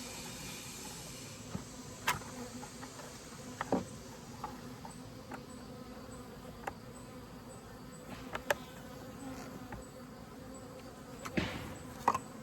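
Honeybees buzzing around an open hive, a steady low hum, with a few short sharp clicks scattered through it, the loudest near the end.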